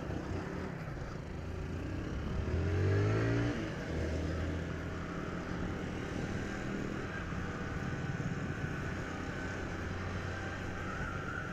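Motorcycle engine under way, rising in pitch as it accelerates about two seconds in, dropping back after about a second, then running steadily, with a steady rushing noise over it.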